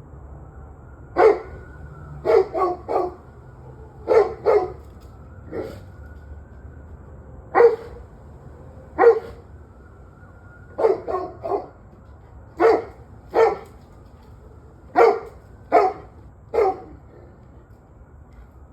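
A dog barking repeatedly in short, irregular bouts of one to three barks, about sixteen barks in all, stopping shortly before the end. It is part of barking that has gone on and off for about an hour and a half.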